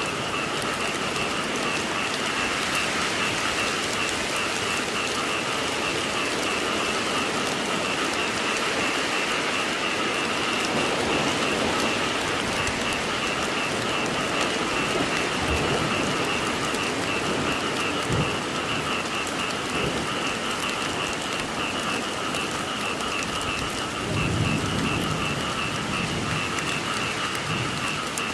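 Steady rain falling, with a continuous chorus of frogs calling in a high, pulsing drone. A low rumble of thunder swells up about three quarters of the way through.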